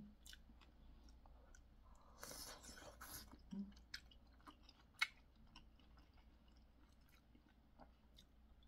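Faint close-up chewing of chewy, spicy boneless chicken feet, with soft wet mouth clicks, a louder stretch about two seconds in, and a single sharp click about five seconds in.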